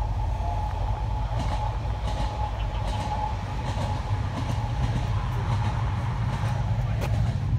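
Chevrolet C3 Corvette's V8 idling through side-exit exhaust pipes, a steady low rumble.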